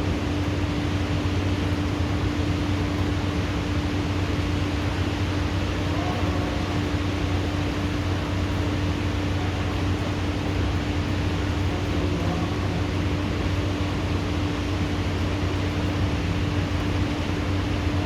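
Steady hiss of heavy rain falling, with a constant low hum underneath and no thunder.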